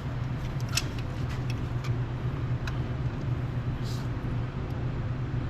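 Steady low background hum, with a few faint clicks of hand work on a brake caliper as its pistons are pushed back in.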